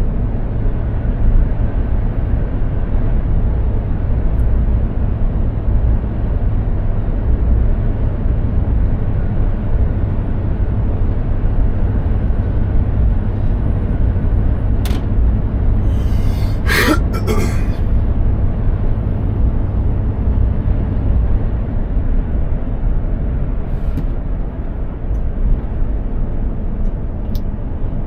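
Mercedes-Benz Actros 2763 truck driving on the road: the steady low drone of its 15.6-litre straight-six diesel and tyre noise, with a brief hiss about two-thirds of the way through and a few scattered clicks.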